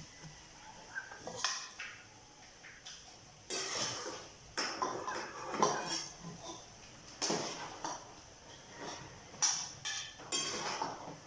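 A cooking utensil scraping and clattering against a pan several times, in separate short strokes.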